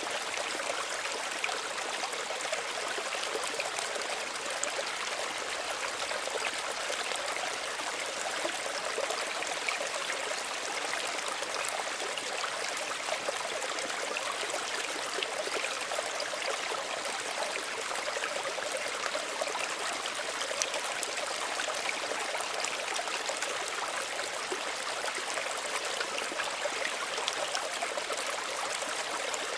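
Small stream running steadily over stones, a continuous light babble and trickle of water.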